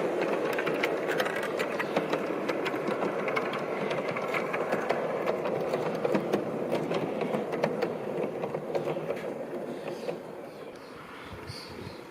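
G-scale garden railway train running along the track: a steady electric-motor whir with rapid clicks of wheels over the rail joints, fading away over the last few seconds.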